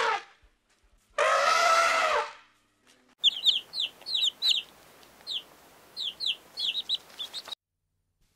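Baby chicks peeping: a rapid, uneven string of short, high cheeps that fall in pitch, starting about three seconds in and stopping abruptly near the end. Before them, about a second in, comes one loud animal call lasting about a second.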